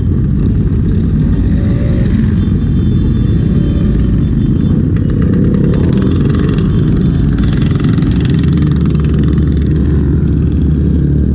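Motorcycle engine running on the road under a loud, dense low rumble, settling into a steady low drone about eight seconds in.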